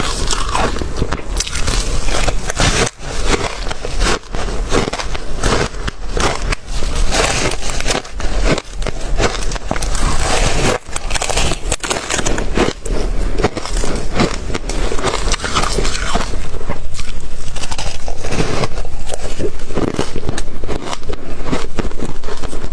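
Ice being bitten and chewed close to the microphone: a dense, continuous run of loud crunches and cracks, getting a little louder and more even toward the end.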